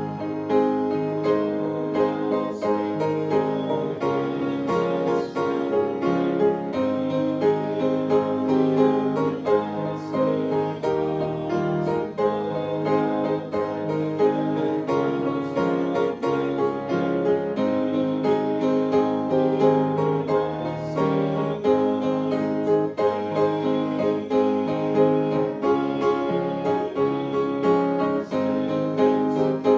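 Piano music played steadily, with no singing.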